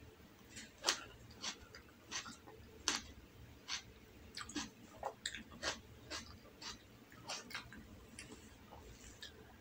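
Close-miked chewing: a string of short, sharp mouth clicks at an uneven pace, about one or two a second, as a tomato slice and soft rolled omelette are eaten.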